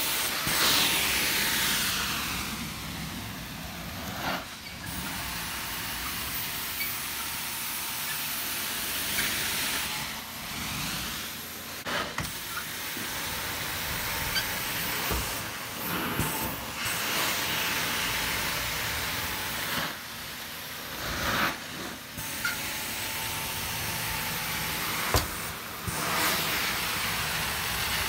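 Hot-water extraction carpet-cleaning tool fed by a truck-mount hose, running a final rinse pass over carpet: a steady hiss of vacuum suction and spray, broken every few seconds by short dips as the tool is worked back and forth.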